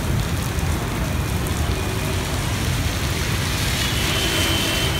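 Heavy rain pouring onto a wet road and pavement, a steady hiss, with the low rumble of traffic underneath.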